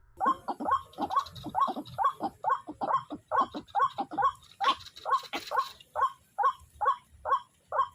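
White-breasted waterhen calling: a rapid, even series of short repeated calls, about two a second.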